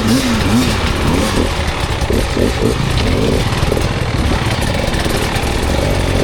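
Dirt bike engine revving up and down under varying throttle, its pitch rising and falling repeatedly, with quick blips about two to three seconds in.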